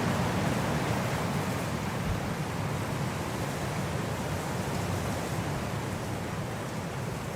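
Steady winter wind blowing, an even rushing noise weighted toward the low end that eases off a little toward the end.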